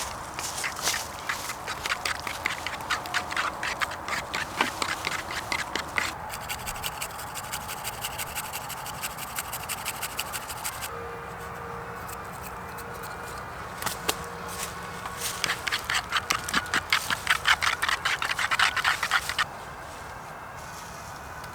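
Rapid, rhythmic clicking or tapping of a utensil during hand food preparation, in three long runs; the middle run is faster.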